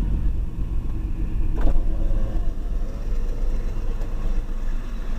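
Low, steady rumble of a Pan Am freight train's diesel locomotives, with one sharp click about a second and a half in.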